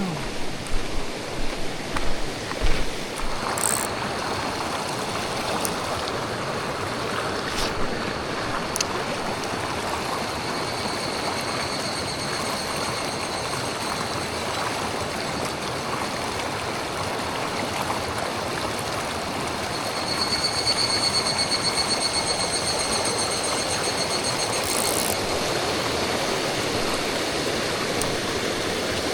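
Mountain stream water running steadily. There are a few knocks in the first few seconds, and from about ten seconds in a high, fast-pulsing call, loudest a little past the middle.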